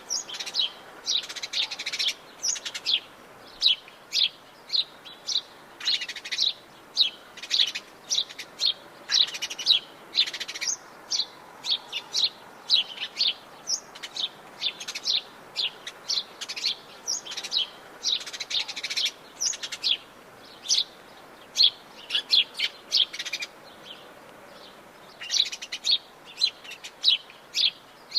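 Atlantic Forest birds chirping: a dense run of short, high calls, several a second, with a brief lull a little before the end.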